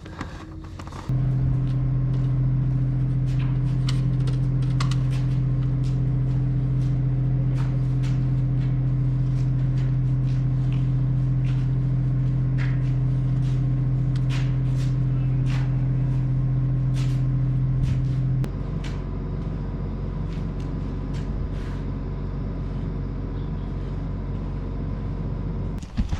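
A motor running with a steady drone that starts about a second in, with scattered light ticks. About two-thirds of the way through, the drone drops to a quieter, lighter pitch and keeps running until just before the end.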